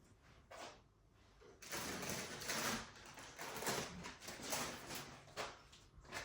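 A bag of chips crinkling and rustling as it is handled, in irregular bursts starting about a second and a half in.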